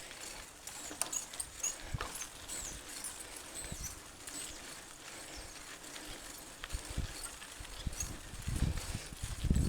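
Mountain bike rolling over a rough dirt and rock trail: irregular clicks and knocks from the bike, with heavier thumps near the end.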